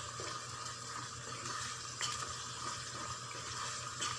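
Chicken gizzards frying in a thick spiced masala in a pan, sizzling steadily while a spatula stirs through them, with a brief louder scrape about two seconds in and again near the end.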